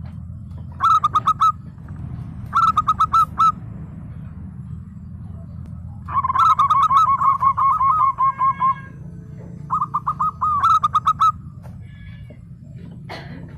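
Zebra dove (local perkutut) singing its staccato trilled coo, four phrases of rapid pulsed notes, the third the longest. A steady low hum runs underneath.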